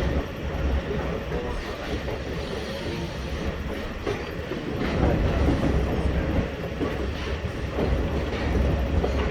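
Train pulling into a station: a continuous low rumble of cars rolling along the track, louder from about halfway.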